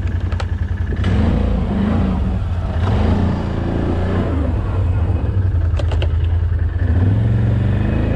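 A motor vehicle's engine running with a pulsing low drone, its pitch rising and falling with the throttle a second or so in, and a couple of brief clicks.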